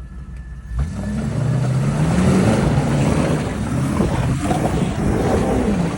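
Range Rover engine revving hard as it drives through deep muddy water, with a loud rush of splashing water. It builds up about a second in.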